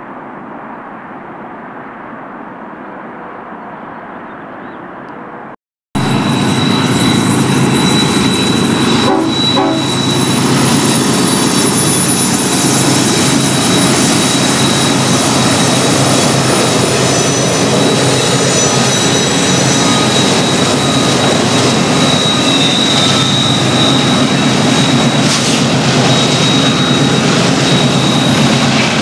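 A duller, quieter train rumble cuts off abruptly; then BNSF diesel locomotives and an intermodal stack train run by loud and steady, with a thin high whine over the rumble.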